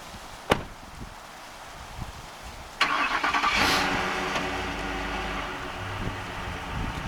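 A single sharp click, then about three seconds in the pickup truck's engine starts up and runs at a steady idle.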